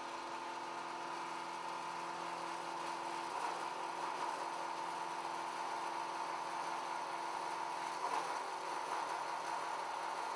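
BTM 71 51 ADS CNC band saw running: a steady machine whir and hum with a few steady tones, shifting slightly about three seconds in and again near eight seconds.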